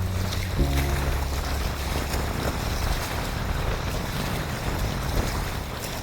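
Steady wind buffeting the microphone over the wash of choppy reservoir water.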